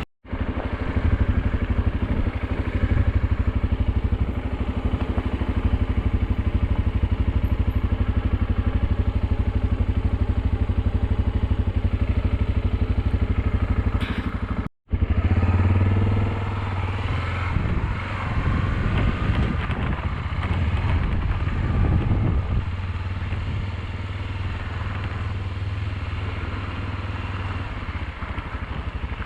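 Motorcycle engine running steadily while riding, a continuous low drone that varies a little in pitch partway through. It cuts out abruptly for a split second about halfway.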